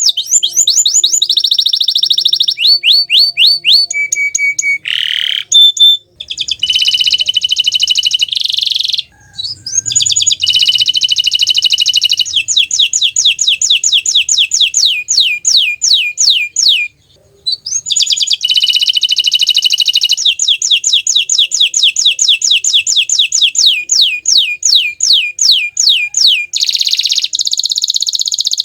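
A green domestic canary singing. Its song is long, rapid trills of repeated falling notes, alternating with held, buzzy rolls, with brief breaks about 6, 9 and 17 seconds in.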